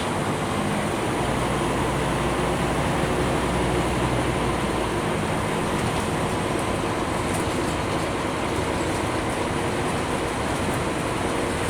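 Scania K310UB bus under way, heard from inside the cabin: its diesel engine runs over a steady rumble of road and tyre noise, with the deepest engine note strongest in the first few seconds before it eases off.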